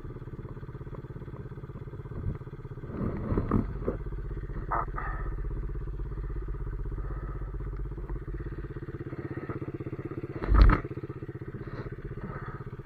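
Small pit bike's single-cylinder four-stroke engine idling steadily, still on choke while cold. A sudden loud thump cuts in briefly about ten and a half seconds in.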